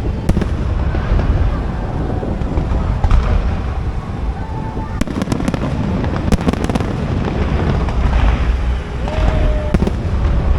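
Aerial fireworks display: a continuous low booming of shell bursts, with clusters of sharp crackling about five to seven seconds in and again near the end.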